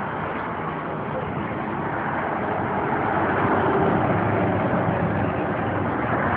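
Chevrolet 350 small-block V8 running steadily in a 1982 pickup, getting a little louder partway through.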